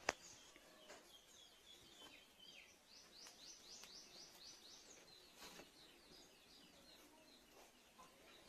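Faint bird chirping: scattered high chirps, with a quick run of repeated rising chirps about three to four seconds in. A single sharp click sounds right at the start.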